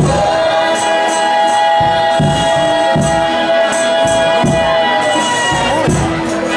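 Folia de Reis ensemble music: one long held note over irregular drum beats and the jingles of a pandeiro tambourine. The held note fades out about five seconds in.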